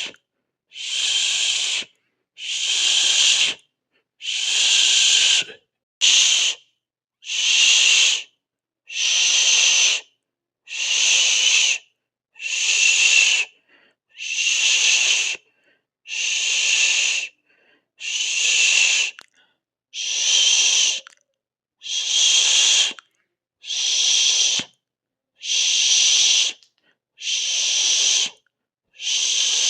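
A person hissing 'sss' through the teeth over and over, each hiss about a second long and cut off, with a short pause before the next, about one every second and three-quarters.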